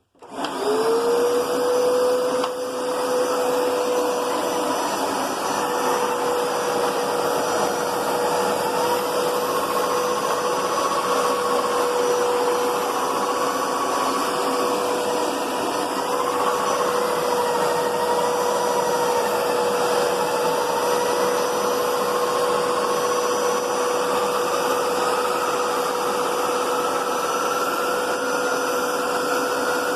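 Hoover Power Scrub Deluxe carpet cleaner switching on, its motor whine rising quickly to a steady pitch and running on. A fainter second tone wavers up and down over it.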